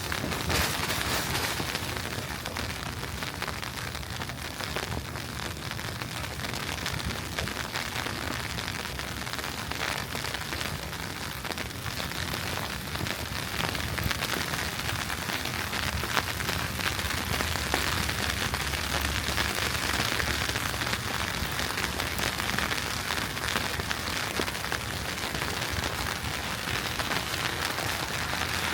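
Steady hissing patter of wet snow falling on a city street, with fine crackles throughout.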